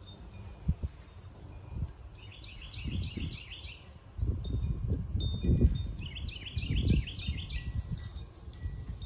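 Outdoor ambience: a bird singing two short, rapid twittering phrases a few seconds apart, over a low, uneven rumble.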